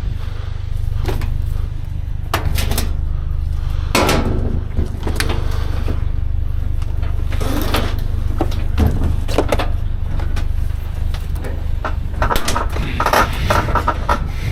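Sheet-metal clanks and knocks from scrap appliances being shifted and loaded, about eight separate hits, then a quick rattling clatter near the end, over a steady low engine hum.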